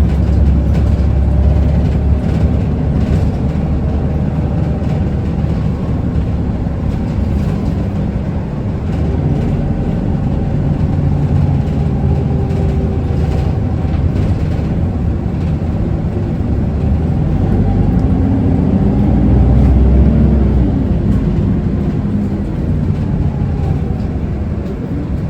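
Cabin sound of an Isuzu Erga city bus: its diesel engine runs steadily at low revs while the bus pulls up and waits at a stop.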